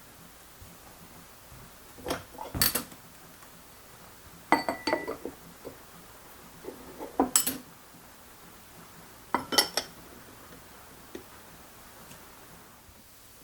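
Kitchenware being handled: four short bursts of clinking and clattering, each with a brief ring, spaced about two and a half seconds apart.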